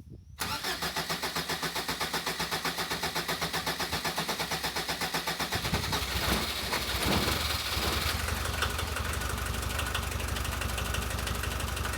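VW T3's diesel engine cranked by the starter, pulsing rapidly for about five seconds, then catching, revving briefly and settling into a steady idle. This is its first run after the diesel injection pump was cleaned and refitted, the engine running again after many years.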